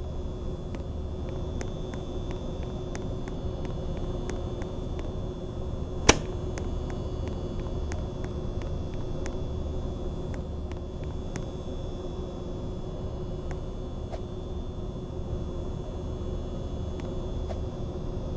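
Mistral ceiling fan running with a steady motor hum and faint regular ticking, about three ticks a second. A single sharp click about six seconds in.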